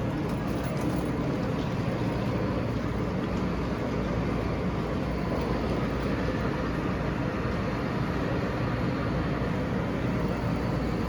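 Steady running noise of an EMU3000 electric express train: an even low rumble with a rush of noise over it.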